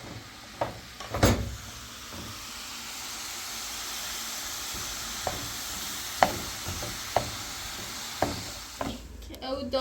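Food frying in oil, a steady sizzle that swells after the first couple of seconds and holds. About half a dozen sharp knocks sound over it, the loudest about a second in.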